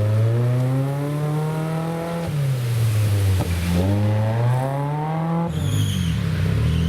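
Off-road competition vehicle's engine revving hard, its pitch climbing for about two seconds, dropping, then climbing and dropping again, before settling to a lower note near the end.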